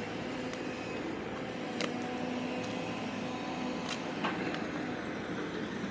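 Steady hum of road traffic passing, with a few light clicks about two and four seconds in.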